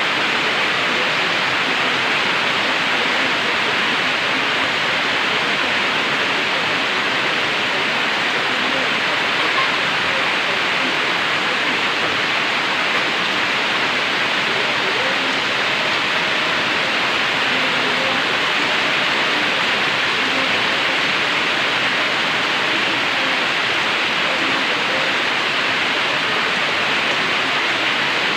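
Heavy typhoon rain pouring steadily: an even, unbroken hiss of downpour.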